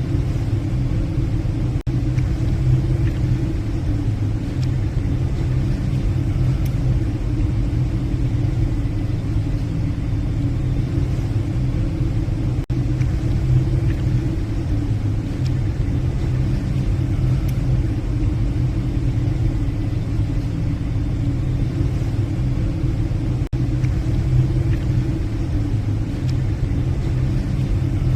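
Steady low drone of a passenger ship's engines and machinery, heard from the bridge.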